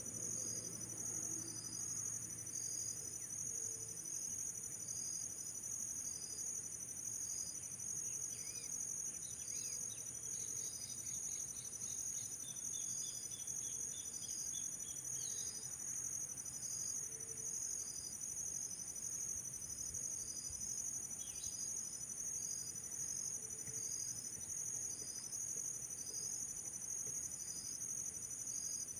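A steady, high-pitched insect chorus of trilling crickets, with a faint run of short chirping notes from about eight to sixteen seconds in.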